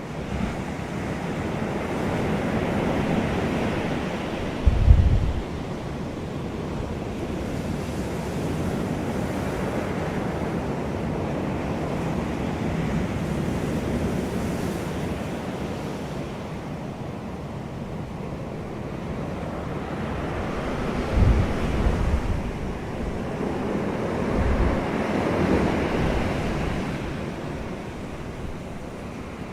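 Sea waves washing in slow swells, with wind gusting across the microphone in a few low buffets.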